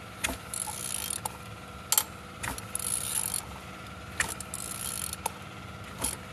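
Engine 12J215 turned over by hand with a ratchet wrench, in about three repeated strokes, each a hiss lasting about a second with sharp clicks between them; the engine turns freely.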